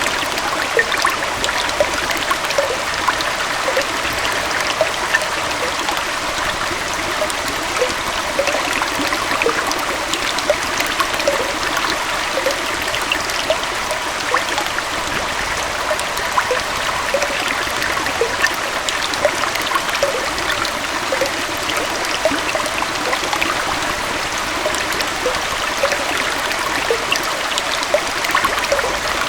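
Small waterfall and forest stream flowing steadily, a constant rushing splash with bubbling and gurgling throughout.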